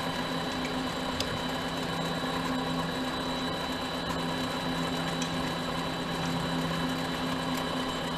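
Mini lathe running steadily with a constant hum and a high whine while a drill in the tailstock is fed into spinning brass hex stock.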